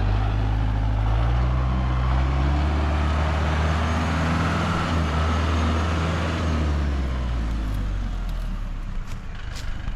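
A large vehicle engine running steadily, its pitch shifting up and down as the load changes, easing off toward the end with a few sharp clicks.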